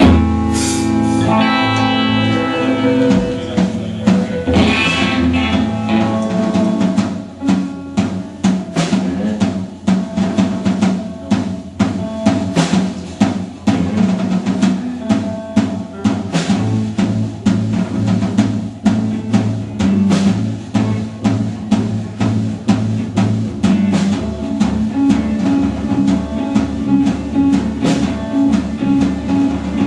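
Live rock band playing guitar, bass and drum kit. It starts with a sudden loud full-band hit and held chords, and about seven seconds in the drums settle into a steady beat under the guitar and bass.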